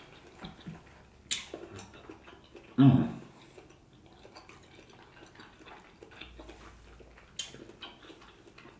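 Close-up chewing of a bite of ribeye steak: soft wet mouth sounds with a few sharp smacks, about a second and a half and seven and a half seconds in, and a short hum about three seconds in.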